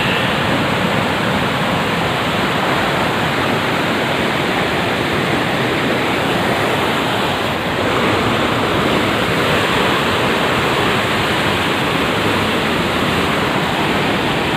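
Loud, steady rush of falling water: a river cascading over rocks, unbroken and even throughout.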